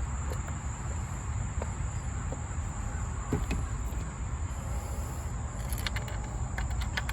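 Steady background rumble with a constant high-pitched whine, and a quick series of light sharp clicks starting about six seconds in, like small parts being handled on the engine.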